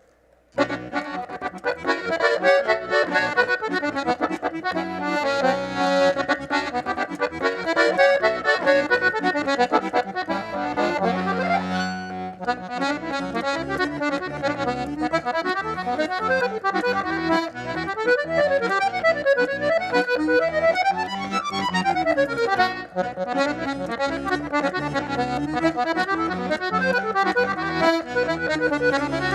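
Accordion playing an instrumental piece in the southern Brazilian gaita tradition, starting about half a second in. Quick melodic runs, with a long held chord around the middle.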